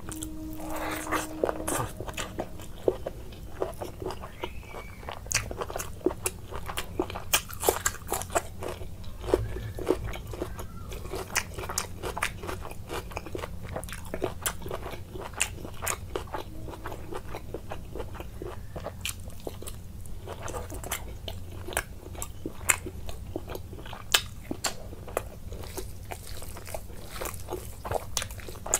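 Close-miked eating sounds: wet chewing and lip-smacking on mouthfuls of rice and meat curry eaten by hand, with many quick irregular clicks and occasional crunches.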